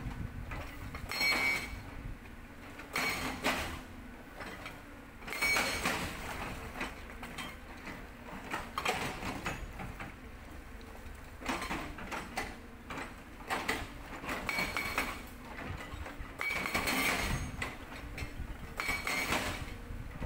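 Hydraulic rock breaker on a CAT 320D excavator working stone: repeated bursts of high metallic squealing and scraping every two to three seconds over a steady low rumble.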